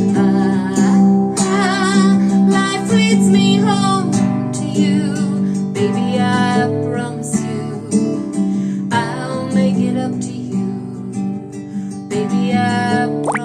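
Acoustic guitar music, strummed chords with a wavering, vibrato melody line over them.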